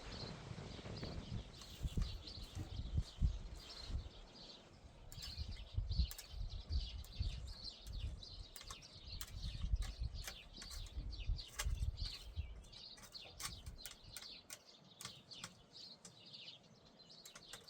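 Small birds chirping repeatedly in short calls, over an irregular low rumble that dies away about twelve seconds in.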